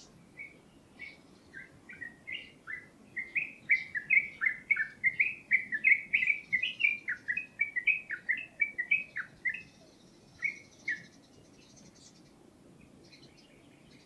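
A songbird singing one long song of quick, slurred notes, about four a second, building up to its loudest in the middle and ending with a few separate notes about ten to eleven seconds in.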